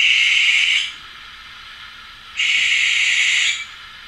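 Recorded owl call played back: two hissing screeches, the first under a second and the second a little over a second, about two and a half seconds apart, not the familiar hoot.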